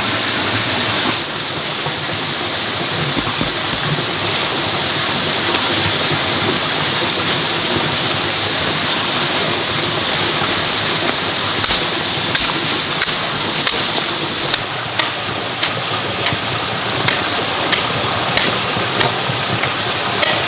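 Steady rush of running water, with a series of short, sharp ticks in the second half.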